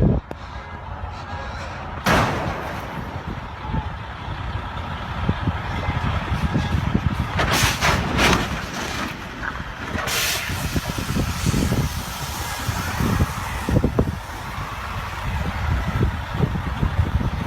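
Road vehicle noise, a rumble of engines and traffic, broken by short sharp hisses about two seconds in, twice around eight seconds and again at ten seconds.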